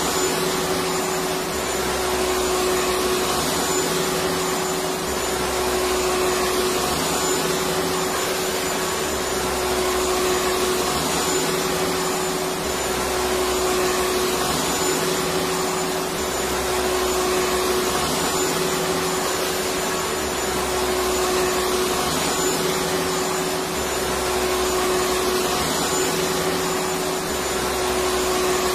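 Electric vacuum cleaner running steadily: a continuous rushing motor noise with a steady hum, and a faint low pulse that comes back about every three seconds.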